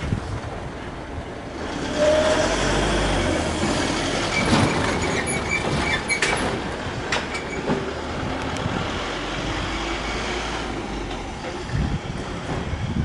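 Kintetsu limited express electric train passing over a level crossing. A steady rumble is broken by sharp clacks of the wheels over rail joints, several of them about halfway through.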